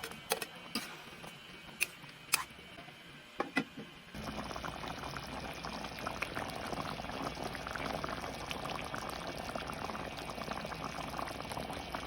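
A few sharp clicks in the first four seconds, then a sudden start of steady bubbling and sizzling: a pan of chicken afritada simmering in its sauce.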